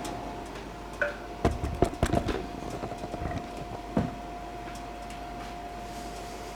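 Monitor 422 kerosene heater running with a steady, even whine, while the burner is lit and burning blue. A few sharp knocks and clicks come between about one and two and a half seconds in, and one more comes at about four seconds.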